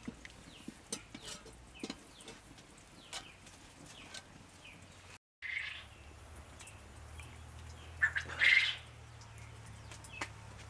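Birds calling in the background: scattered short chirps through the first half, then a louder call about eight and a half seconds in, over a low steady rumble.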